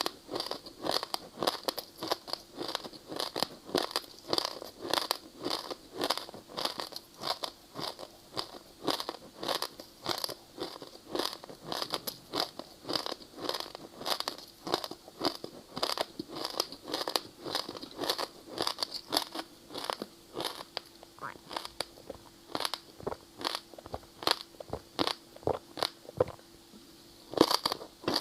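Ice being bitten and chewed up close, a dense run of sharp crunches several times a second, with a short pause near the end before the crunching resumes.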